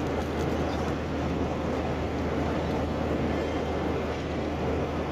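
Steady airplane cabin noise: a constant rushing sound with a low hum underneath.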